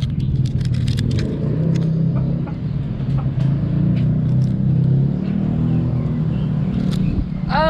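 Close handling noise from a parakeet perched on the camera: scattered small clicks and scratches over a steady low rumble. A short rising call comes near the end.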